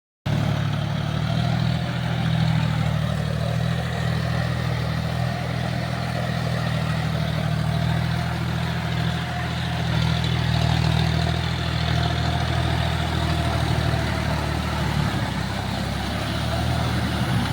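John Deere tractor's diesel engine running at a steady speed, with a low, even hum that shifts slightly about fifteen seconds in.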